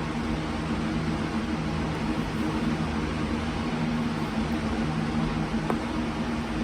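Steady low mechanical hum with hiss from a running room appliance, with one faint click near the end.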